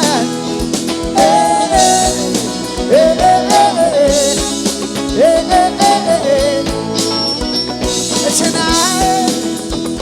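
Live band music: drum kit and guitar playing under a lead melody that rises and falls in short phrases.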